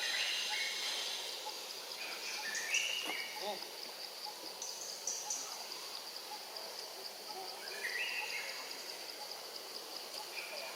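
Outdoor insect drone, a steady high pulsing buzz, with a bird repeating a short phrase of stepped chirping notes at the start, about two seconds in and again about eight seconds in.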